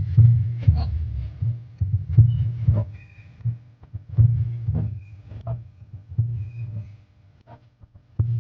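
Heavy booming bass from a carnival street sound system's subwoofers playing music, with big deep pulses about every two seconds and smaller thuds between them.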